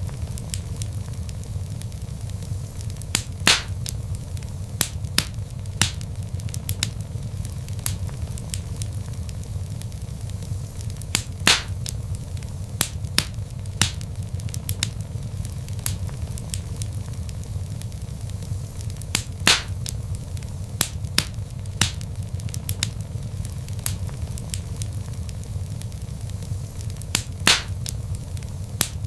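Wood logs burning in a fireplace: a steady low rumble of flame with frequent sharp crackles and pops, a few louder pops recurring about every eight seconds.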